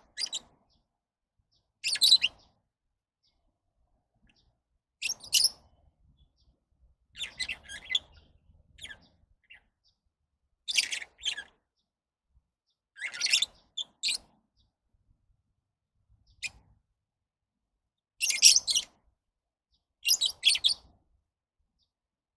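Lovebirds chirping in short, high-pitched bursts, about nine of them, each well under a second long and separated by silent gaps of one to three seconds.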